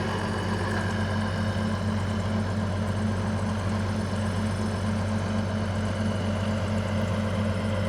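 Tractor engine idling steadily, an even low hum that does not change.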